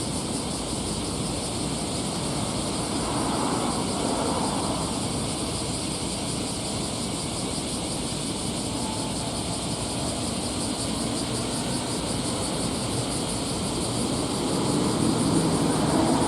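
Steady low drone of a car ferry's engines under way, mixed with constant high-pitched outdoor noise, growing a little louder near the end.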